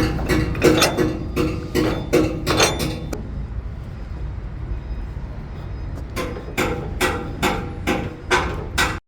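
Truck heard from inside the cab, running steadily under a run of regular sharp clicks, about three a second. The clicks stop for about three seconds, start again, and the sound cuts off abruptly near the end.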